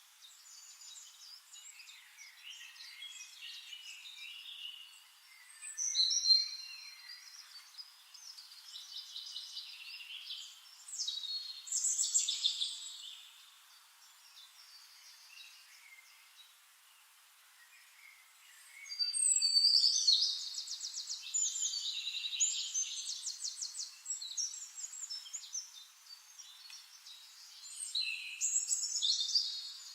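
Songbirds singing in a series of high phrases, some of them fast trills, with the loudest bursts about 6, 12, 20 and 29 seconds in and quieter chirping between them.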